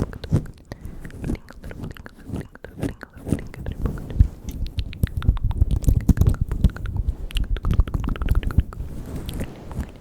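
Close-microphone ASMR mouth sounds: a dense run of fast, irregular wet clicks and smacks.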